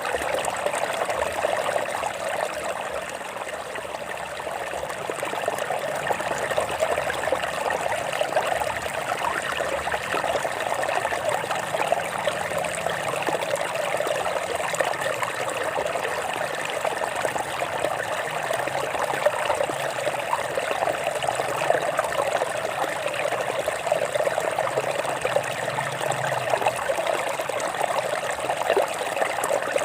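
Stream water flowing and trickling over rocks: a steady, even babble with fine splashing detail.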